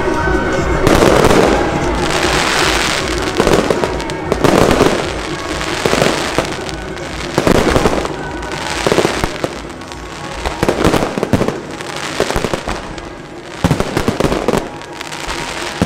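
Fireworks display: aerial shells bursting in quick succession, roughly one every second or two, with crackling between the reports.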